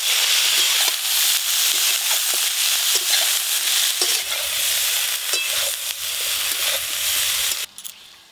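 Broccoli florets and potato pieces sizzling as they fry in oil in a metal karai, with a metal spatula scraping and knocking against the pan as they are stirred. The sizzling cuts off suddenly near the end.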